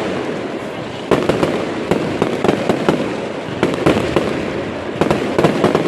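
Fireworks display: a dense, continuous run of cracks and pops, with heavier bangs about a second in and again around four and five seconds in.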